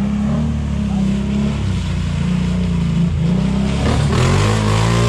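ATV engine running hard, its pitch dipping about three seconds in and then rising as it revs up near the end.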